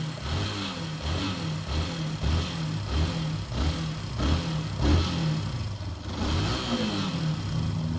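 Yamaha Factor 150's single-cylinder engine running, its speed rising and falling a little, with a knocking from a slack cam chain: the chain is worn and loose and needs replacing.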